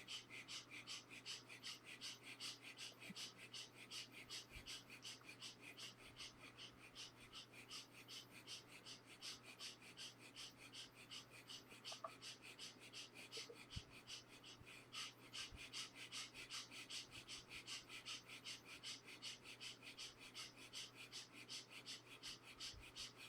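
Quick, short, forceful breaths through the nose, faint and evenly paced at about three a second: a rapid breathing exercise in progress.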